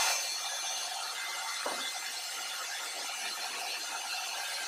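A power tool working steadily on a surface: a continuous, even, scratchy hiss with no pauses, like abrasive sanding or grinding.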